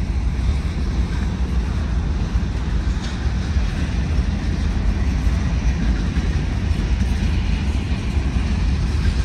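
Freight cars rolling past on the rails: a steady low rumble of wheels on track.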